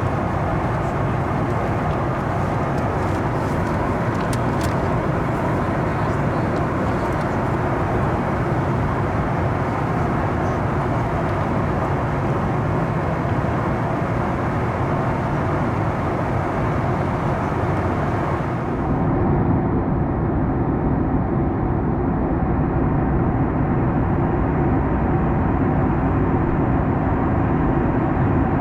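Steady cabin noise of a Boeing 737 MAX 9 in flight: an even rushing of airflow and its CFM LEAP-1B engines. About 19 s in the sound changes abruptly, losing its hiss and taking on a steadier hum.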